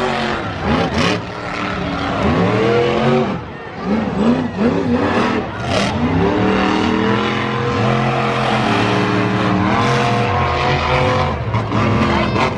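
Monster truck engine revving hard. The pitch climbs and drops in quick blips for the first several seconds, then is held high and fairly steady for most of the remaining time.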